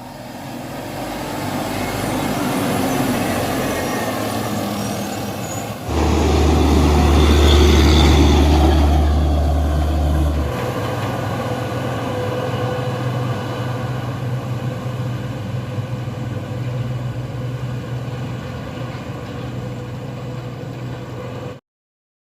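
Loaded dump truck's diesel engine pulling hard up a steep climb, growing louder. About six seconds in the sound jumps to a heavy deep drone for a few seconds, then settles to a steadier, lower engine note until it cuts off abruptly near the end.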